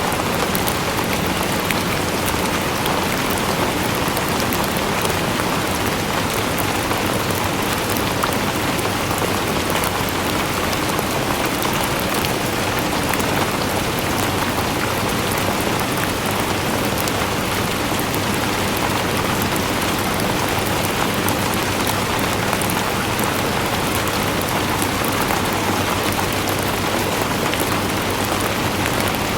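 Steady rain falling on a surface, an even hiss dotted with the fine ticks of individual drops.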